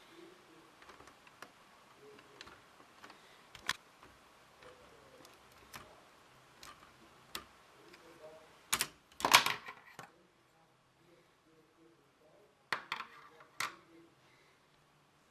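Lego plastic parts clicking and clacking as a mechanism is worked: scattered light clicks, one sharp click about four seconds in, a loud burst of clacks about nine seconds in, and another group near thirteen seconds.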